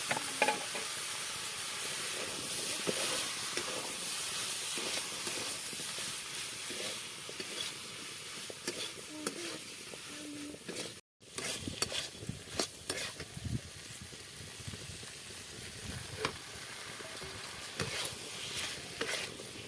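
Food sizzling in hot oil in a pan while being stirred, with a steady frying hiss and scattered scrapes and clicks of the stirring utensil against the pan.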